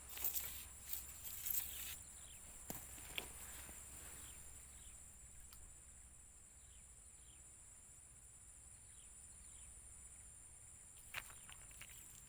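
Steady high-pitched insect drone, with rustling and clicking footsteps in the first two seconds and again near the end.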